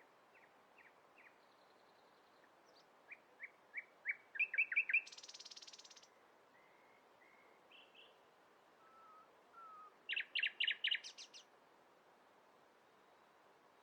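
Songbirds chirping and calling: scattered short chirps build into quick runs of loud chirps about four seconds in and again about ten seconds in, with a fast buzzy trill just after the first run and a few soft short whistles between.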